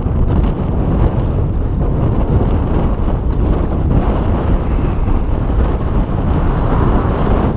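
Strong wind buffeting a GoPro's microphone: a loud, steady low rumble with gusty noise over it.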